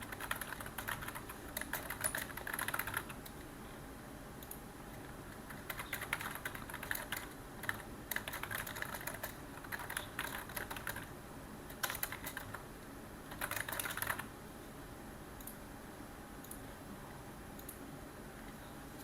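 Typing on a computer keyboard in bursts of rapid key clicks with short pauses between; after about fourteen seconds the typing stops and only a few isolated key clicks follow.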